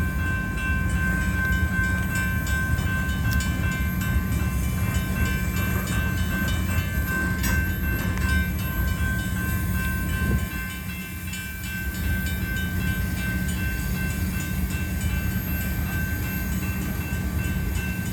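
Freight train cars rolling slowly past, a steady low rumble of wheels on rail. A thin, steady high squeal sounds over it and fades out about halfway through.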